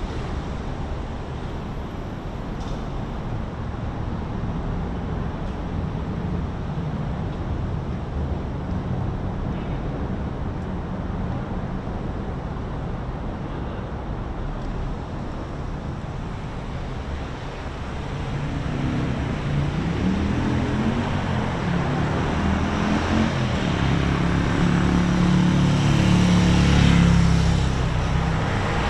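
Steady road traffic noise. About two-thirds in, a heavy vehicle's engine grows louder, peaks near the end and then begins to fade as it passes.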